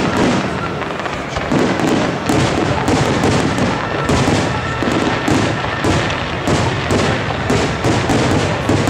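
Aerial firework shells bursting in quick succession: a steady run of bangs and thuds with crackling.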